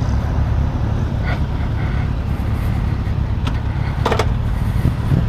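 Yamaha FZ-07's parallel-twin engine running steadily at low revs through an aftermarket Akrapovič exhaust, with a few brief ticks over it.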